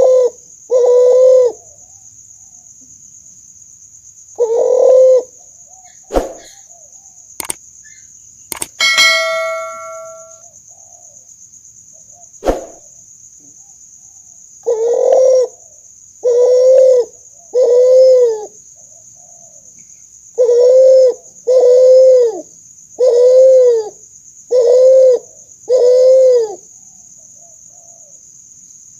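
Kuter, a hybrid of a spotted dove and a barbary dove, cooing in series of short arched coos, a few early on and then two runs of four and five. A steady high-pitched hiss lies under it, and a few sharp clicks and a brief ringing tone fall in a gap a third of the way in.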